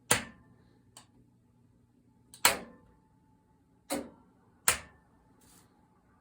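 Switching clicks as a tube power supply's high-voltage, screen and bias circuits are powered up: four loud, sharp clicks and a few fainter ones, roughly a second apart, over a low steady hum.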